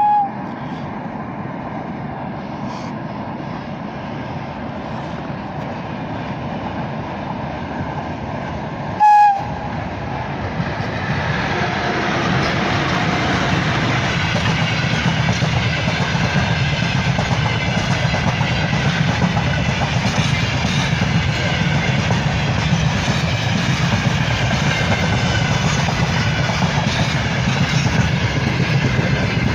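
VL10 electric locomotive hauling a freight train: a brief horn blast right at the start and a loud short blast about nine seconds in, then the rumble and clatter of the train growing steadily louder.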